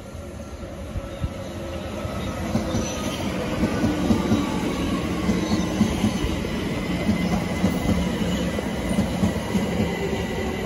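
London Overground Class 378 electric multiple unit approaching and running past, growing louder over the first two to three seconds and then holding steady. Its low rumble carries a steady electric hum, a faint high wheel squeal and scattered clacks of wheels over rail joints.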